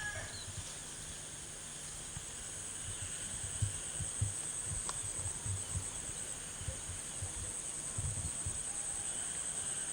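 Steady high-pitched chorus of insects, with irregular low, dull thumps underneath.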